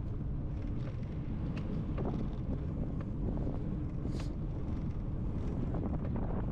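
Wind buffeting the microphone of a camera on a moving bicycle: a steady low rumble, with light scattered ticks and a brief high hiss about four seconds in.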